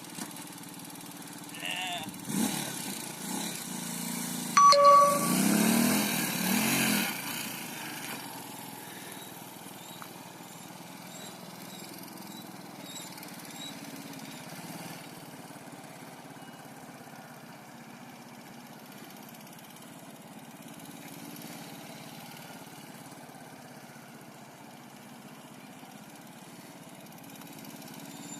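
Motorcycle engine running steadily. It is louder for several seconds near the start, with the pitch rising and falling, and a short beep about five seconds in.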